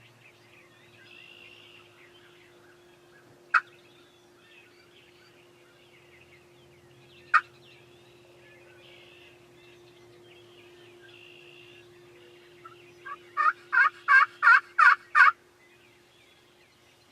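Wild turkey calls: a single sharp cluck twice, a few seconds apart, then a run of about nine yelps at roughly three a second, growing louder. Faint songbird chirps sound behind them.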